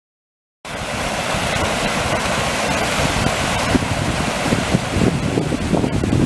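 Irrigation channel in flood after a typhoon: a steady rush of fast-flowing high water, cutting in abruptly under a second in, with wind buffeting the microphone underneath.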